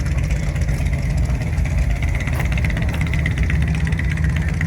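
An engine running steadily nearby, a loud low rumble.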